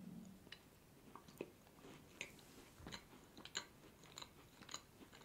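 A person biting into a cream-filled tartlet pastry and chewing it close to the microphone: faint, scattered small crunches and mouth clicks, with the bite at the very start.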